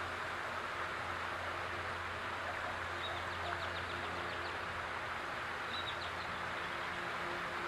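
Backyard fountain water splashing steadily, with a low steady hum under it. A small bird chirps a quick run of high notes about three seconds in and once more briefly near six seconds.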